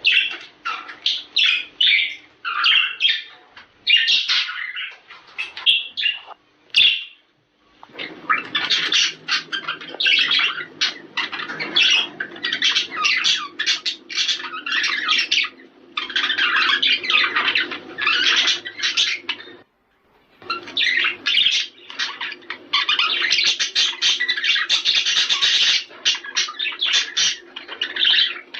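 Budgerigars chattering and warbling in a dense, continuous flock chorus of fast chirps and squawks. It breaks off briefly about seven seconds in and again about two-thirds of the way through.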